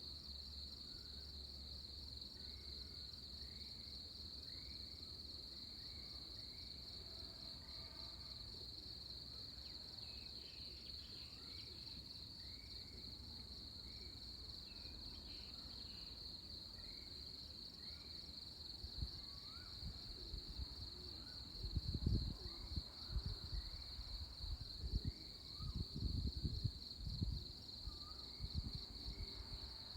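Steady, rapidly pulsing high-pitched insect chorus, with faint short chirps repeating about once a second. From a little past halfway, gusts of wind buffet the microphone in low rumbles, becoming the loudest sound.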